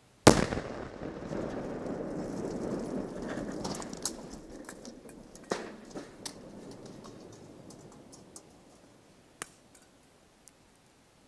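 A car blown up by an explosive charge: one sharp, very loud blast just after the start, followed by a rumble that fades over about four seconds, then a handful of scattered sharp cracks and pops as it dies away.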